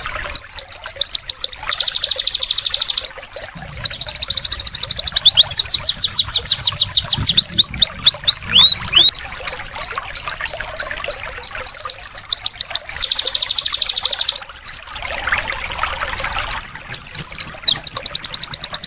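White-eye (pleci) singing a loud, fast song of high trills and rapid chirps with short sweeping notes. A trickle of running water sounds underneath. The song breaks off briefly about two thirds of the way through, where the water is heard on its own, then resumes.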